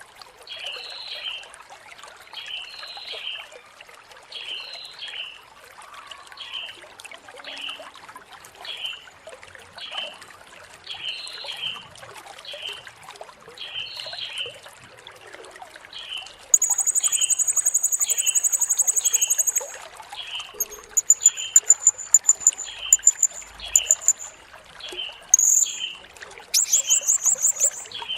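Blue-crowned hanging parrot (serindit) calling: a steady series of short chirps about once every 0.7 seconds, then, a little past the middle, loud, very high, rapid trills in bursts of one to three seconds.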